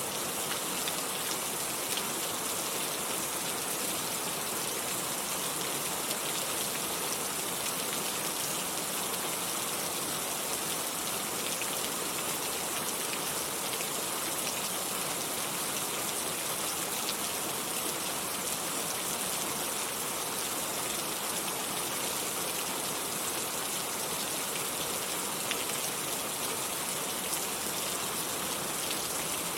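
Steady rain falling: a dense, even hiss of drops with fine ticks of individual drops throughout, no thunder.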